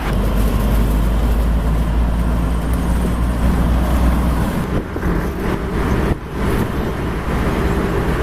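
Road vehicle driving, its engine and road noise a steady rumble that eases about halfway through.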